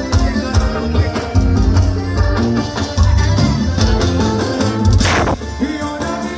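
Live forró band music played loud over a concert sound system, with a heavy pulsing bass, accompaniment and some singing. A brief sweeping sound cuts through about five seconds in.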